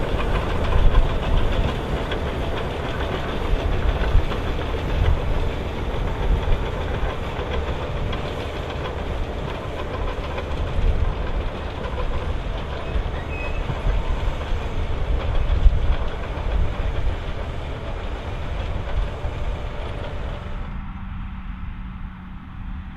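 John Deere 7230R tractor and trailed AVR Spirit 9200 potato harvester working, a steady loud mechanical rumble and rattle of engine and conveyor webs. About 21 seconds in the sound changes abruptly, turning duller with a steady low hum.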